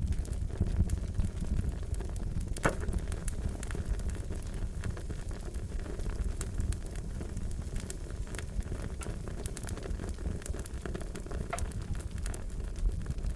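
Fire crackling: a steady low rumble of burning with scattered sharp pops and snaps throughout, one louder pop about three seconds in.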